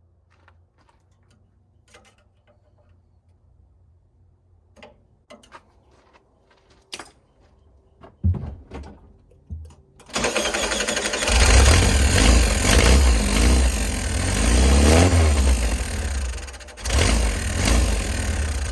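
Light clicks and taps, then a vehicle engine starting and running loudly, with a brief rise and fall in pitch about fifteen seconds in and a short dip near the end.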